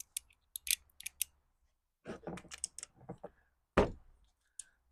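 Irregular light clicks and taps of hand tools and metal parts as a Lawn-Boy mower's carburetor is taken apart, with one louder knock near the end.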